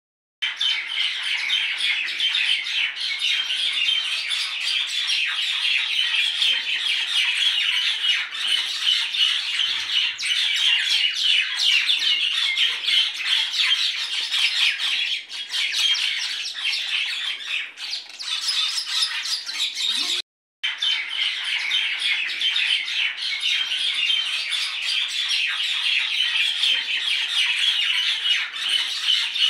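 Many birds chattering together in a dense, continuous flock chorus of squawks and chirps. The sound drops out briefly about two-thirds of the way through.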